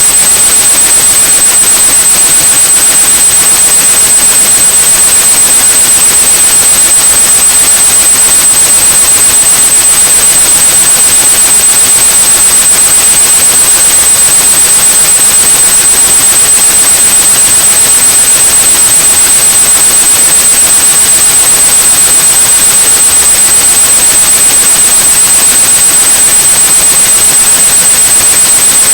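Steady white noise with a constant high-pitched pure tone at 8,100 Hz over it, unchanging throughout: a generated sound for masking tinnitus.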